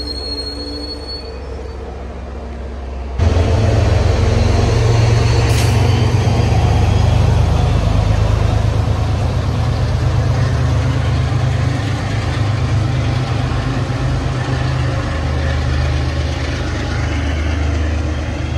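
MBTA commuter rail train running past close by: bilevel coaches rolling with a thin high wheel squeal that fades in the first second or so. About three seconds in, the diesel locomotive draws alongside and its engine's low drone suddenly takes over. It stays loud and steady, easing a little near the end.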